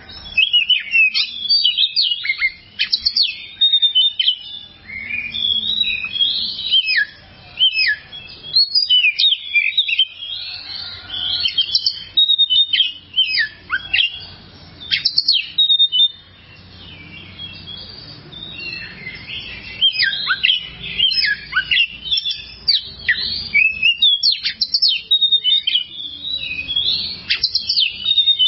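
Oriental magpie-robin (kacer) singing a long, varied song of rapid whistled and chirping phrases, with a quieter stretch about halfway through.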